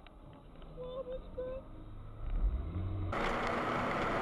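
Low, quiet vehicle engine hum picked up by a dashcam. About three seconds in it gives way abruptly to louder, steady road and wind noise.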